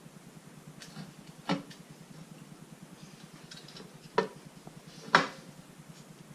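Three sharp metallic clunks, with a few lighter clinks between them, as the end housing of a Mazda 13B rotary engine is seated onto the rotor housing, over a faint low hum.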